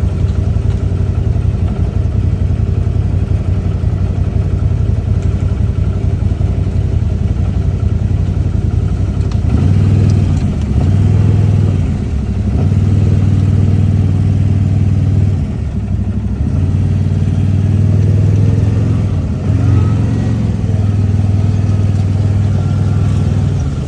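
Side-by-side UTV engine running steadily, then pulling harder from about ten seconds in, easing off and picking up again three times.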